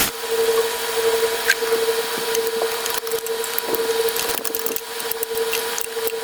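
Scraping and scattered sharp metal clicks as a socket on a wobble extension is worked onto a spark plug deep in the engine bay, over a steady hum.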